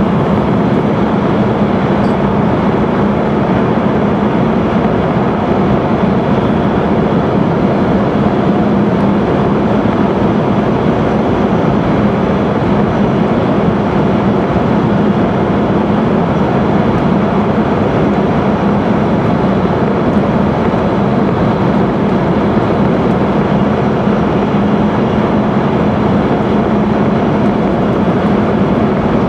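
Interior running noise of an E5 series Shinkansen at speed in a tunnel: a loud, unchanging rushing rumble with a steady low hum underneath.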